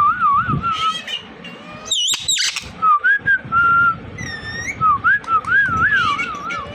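Indian ringneck parrot whistling in wavering, warbling tones, with a short harsh screech about two seconds in and a few high chirps.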